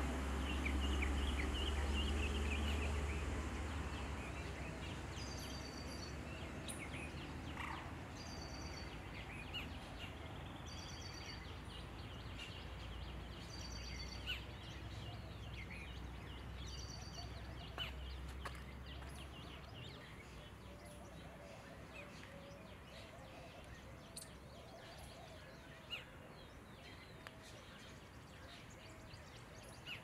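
Faint outdoor ambience. A low rumble fades over the first few seconds, and a bird repeats a short, high two-note chirp every few seconds. A few faint clicks are heard later.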